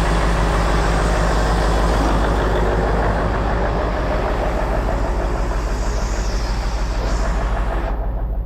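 Heavy diesel engine of a concrete boom pump truck running steadily, with a deep drone and a fast even pulse.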